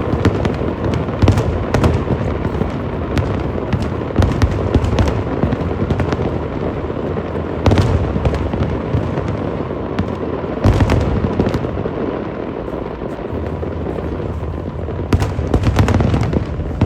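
Aerial fireworks bursting in continuous volleys of bangs and crackles over a steady rumble, with heavier barrages near the start, about eight and eleven seconds in, and near the end.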